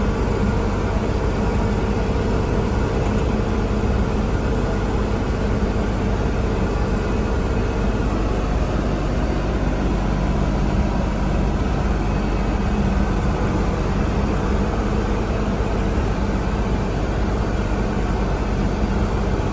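Kubota L3560 tractor's diesel engine running steadily with an even hum.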